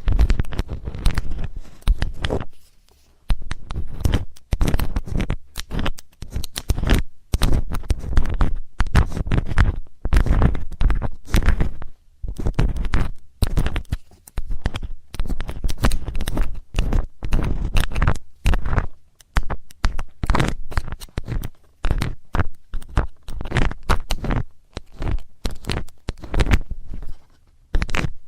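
Metal ear-cleaning tool scraping and scratching right against the microphone, in rapid irregular strokes with a deep rumble under them.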